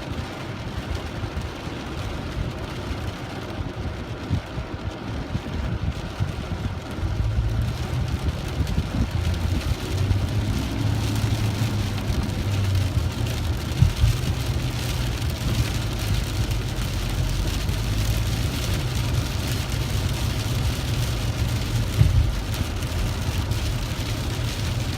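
Heavy rain pouring in a thunderstorm, a steady hiss, with a low steady rumble underneath that grows louder about seven seconds in. Two brief sharp knocks stand out, one around the middle and one near the end.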